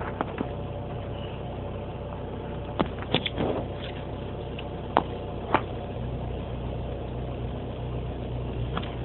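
2007 Mini Cooper S four-cylinder engine idling steadily in the cold soon after a cold start, settling down from its fast idle, with a few sharp clicks mid-way. About six seconds in, the low engine note grows stronger. The car has an ongoing cold-start stall and stumble fault.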